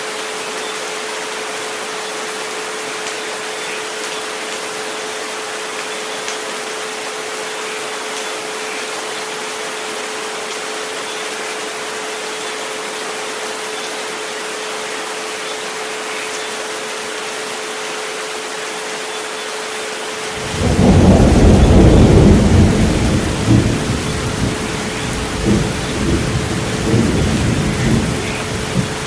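Steady rain with a continuous pure tone at about 432 Hz held underneath. About two-thirds of the way through, a loud low rumble of thunder breaks in suddenly and keeps swelling and fading to the end.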